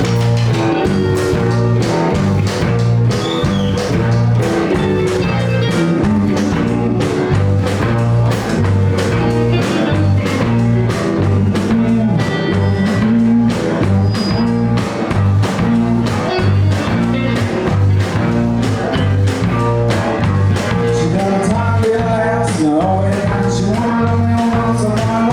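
Live blues-rock band playing, guitar and bass guitar over a steady beat.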